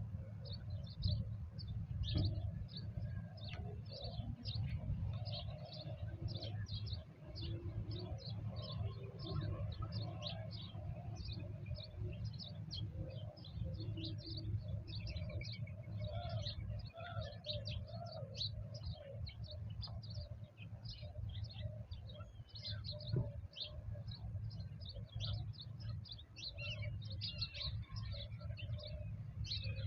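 Many small birds chirping rapidly and without pause, with lower calls that fit doves cooing, over a steady low rumble.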